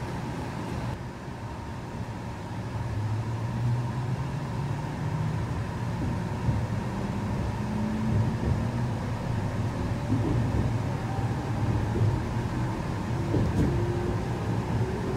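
Electric train heard from inside a passenger car as it pulls away from a station: the motor hum rises steadily in pitch over the rumble of the running gear, getting gradually louder.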